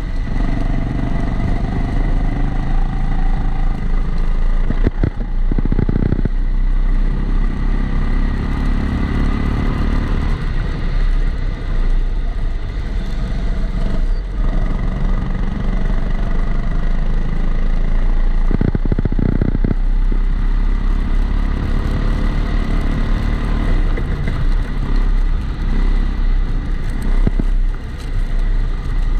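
Onboard sound of a Kombikart Eco rental kart's engine running on track, its pitch rising and falling through the corners, muffled by the camera's waterproof housing. Over it runs a steady high tone, the recurring extra noise the driver puts down to the housing.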